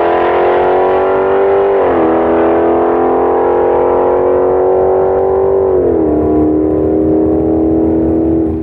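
Dodge Charger SRT 392's 6.4-litre HEMI V8 at full throttle, pulling away down the drag strip. The engine note climbs steadily and drops in pitch at each upshift, about two and six seconds in, then falls away near the end.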